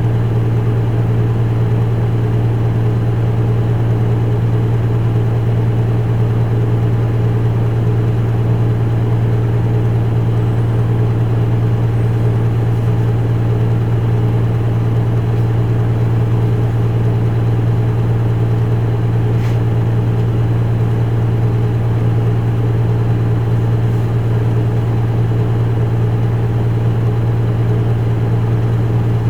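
Isuzu Erga Mio city bus's four-cylinder diesel engine idling steadily, a constant low hum that does not change in pitch, heard from inside the cabin. A couple of faint clicks come past the middle.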